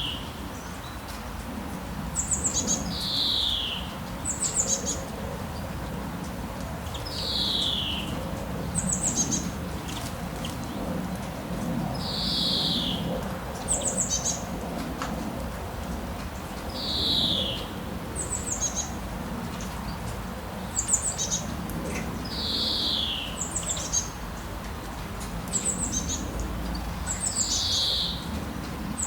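A songbird calling over and over: a quick run of high chirps, then a slurred falling whistle, the pair repeating about every five seconds. Underneath runs a steady low background rush.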